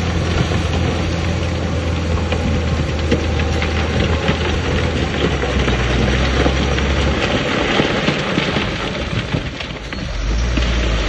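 Diesel engine of heavy earthmoving machinery running steadily under a dense rattling noise. The engine note lowers about seven seconds in, and the sound dips briefly near the end before picking up again.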